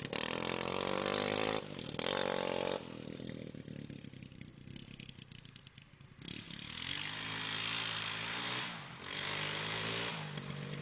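The swapped-in Honda 200X engine of a Kawasaki being ridden, revving hard, easing off about three seconds in and running quieter, then opening up again about six seconds in with a brief drop in revs near nine seconds.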